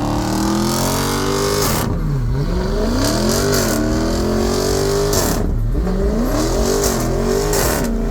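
A vehicle engine revving hard again and again, its pitch climbing and then dropping sharply about every two seconds.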